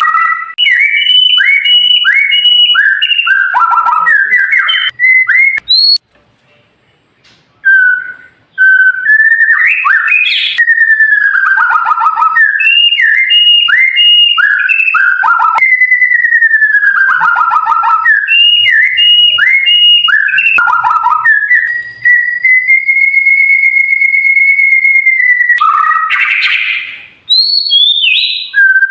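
White-rumped shama (murai batu) singing loud, clear phrases of fast repeated and sliding whistled notes. The song breaks off for about two seconds after six seconds, and near the end holds one long steady whistle for about three seconds before a brief harsh rasp.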